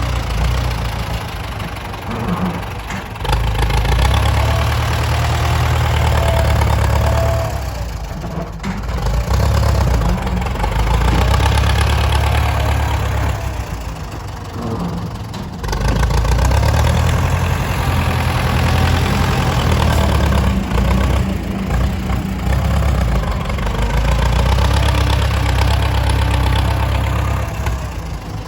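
Heavy engines of dump trucks and a tractor working a land fill, running under load. The sound swells and drops back several times, with a few abrupt changes along the way.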